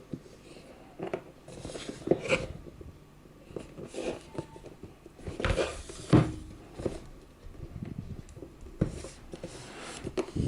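A product box being handled and opened: irregular taps, clicks and scrapes with a few short rustling swells, the loudest about halfway through.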